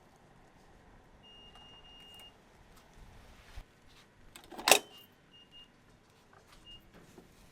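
Short electronic beeps at one high pitch, one held for about a second and several brief ones later, with a single sharp knock just after the middle.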